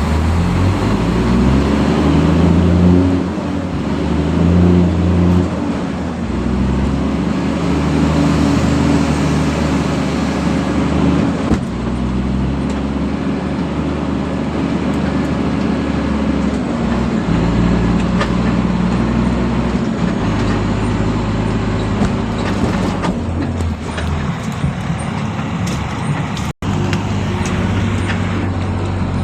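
Heavy truck's diesel engine running, its pitch rising and falling as the engine speed changes. The sound cuts out for a split second near the end.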